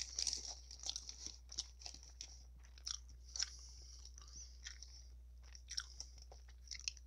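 Close-miked chewing of a mouthful of gyro (lamb meat in pita): irregular wet clicks and soft crunches, loudest near the start and sparser in the middle, over a steady low hum.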